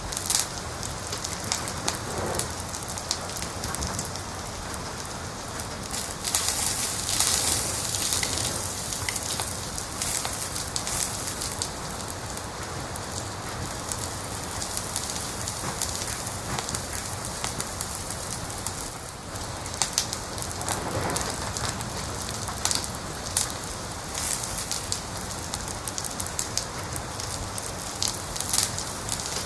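Wood fire crackling: a dense run of small snaps and pops over a steady hiss, with a few louder pops scattered through.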